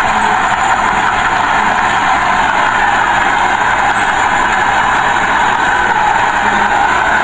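Diesel engine of earthmoving machinery running steadily, with no change in pitch or load.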